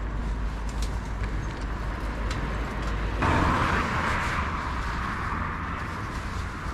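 Road traffic noise with a steady low rumble; a louder rush starts abruptly about three seconds in and fades over the following seconds.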